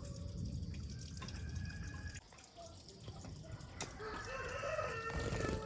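Birds calling a few times over low steady background noise.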